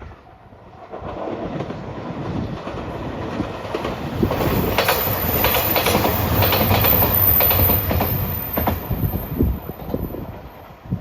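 A train passing close by: it grows louder over the first few seconds, its wheels clatter rapidly over the rail joints at its loudest, and it fades near the end.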